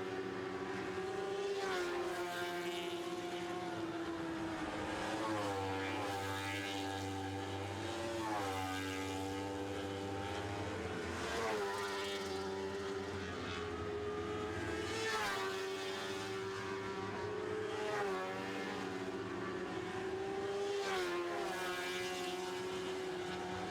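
Lightning Sprint race cars' high-revving engines, which run at over 13,000 RPM, racing around the oval. The pitch dips and climbs back every three to four seconds as the cars lift and get back on the throttle through the turns.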